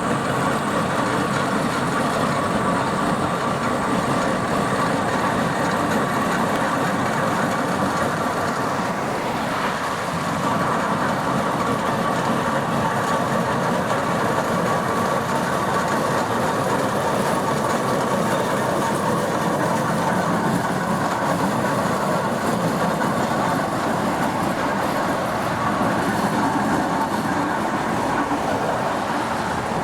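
Steam traction engine on the move along a road, its gearing and steel wheels making a steady, dense clatter.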